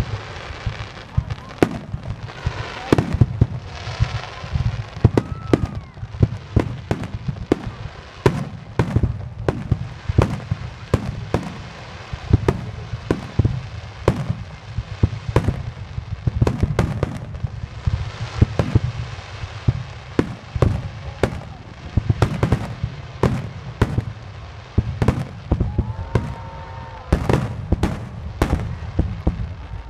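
Fireworks barrage: aerial shells bursting in a dense, continuous string of bangs, two or three a second, overlapping with their echoes.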